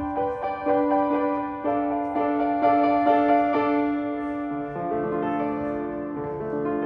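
Solo piano playing: struck melody notes about twice a second over a sustained middle note, then about four and a half seconds in a lower chord is struck and left to ring and fade.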